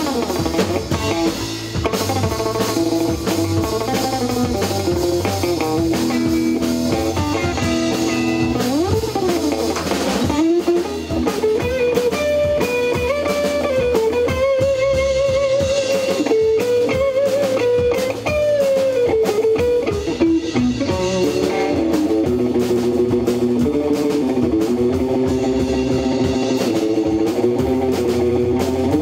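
Live rock band playing: an electric guitar carries a lead melody with bends and vibrato over drum kit and bass, in a surf-rock style.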